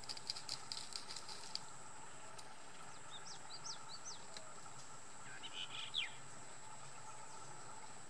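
Wild birds calling in forest: a rapid chatter of short high chirps over the first second and a half, then a few quick high whistled notes, and a brief call that falls in pitch near six seconds.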